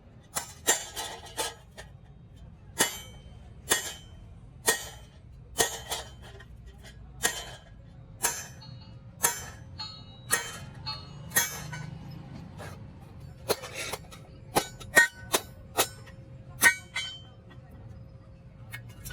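Hammer blows on sheet metal, irregular and sometimes in quick pairs, each ringing briefly.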